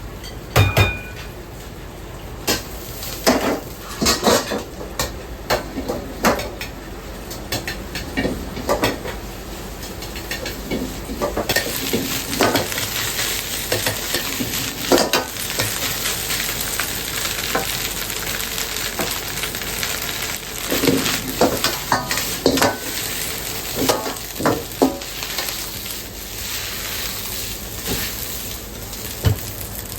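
Food sizzling in a hot pan as it is stir-fried in a restaurant kitchen, with frequent sharp knocks and scrapes of a metal utensil against the pan. The sizzle grows louder about eleven seconds in.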